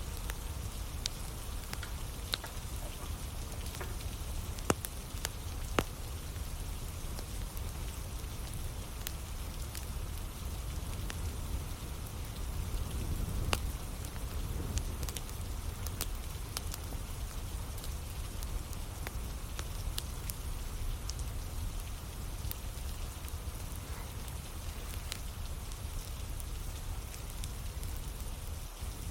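Steady rain falling, with a wood fire crackling and giving scattered sharp pops.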